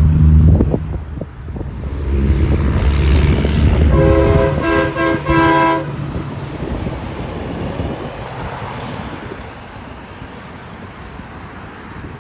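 Diesel semi truck going by with a heavy engine rumble, then sounding a multi-note air horn chord in three short blasts about four seconds in. The truck noise then fades away.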